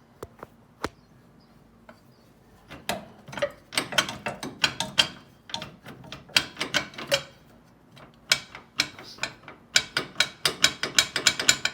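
Hand ratchet wrench clicking while turning the bolts of a car's front engine mount. The clicks are scattered at first, then come in quick runs of about three to four a second near the end.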